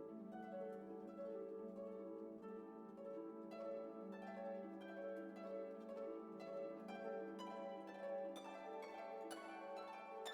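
Background music: gentle plucked notes like a harp or pizzicato strings over a held low note, the plucking becoming busier a few seconds in.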